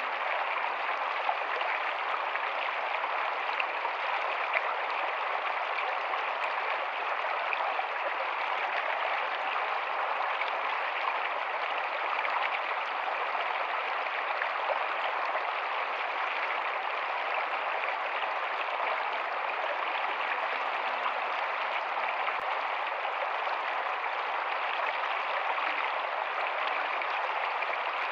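Rocky stream running steadily over stones, an even rushing of water.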